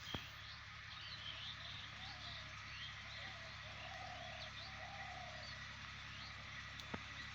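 Faint, repeated high chirping of birds, with a few lower calls in the middle.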